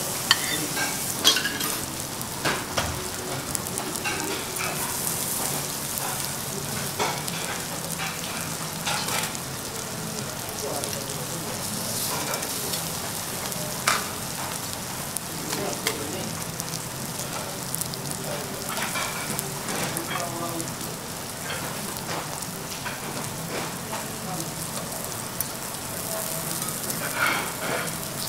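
Duck foie gras and caramelized fruit sizzling on a steel teppanyaki griddle, a steady frying hiss. Scattered sharp clicks and taps of metal utensils on the steel and the plate, more of them near the end.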